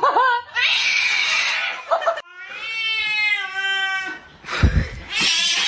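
Domestic cats giving long, drawn-out meows and yowls, several in a row with abrupt cuts between them, some calls falling in pitch, with rougher raspy stretches between the calls. A short low thump comes about three-quarters of the way through.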